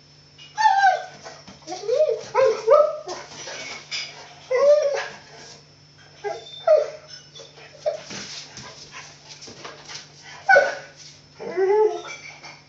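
A dog whining and yipping in short calls that bend up and down in pitch, over and over, excited to play with a cat.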